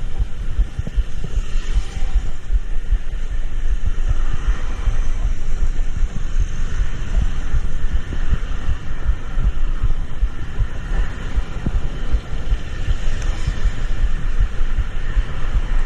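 Vehicle road noise: a steady low rumble full of uneven low thumps, with a hiss of tyres on the road above it.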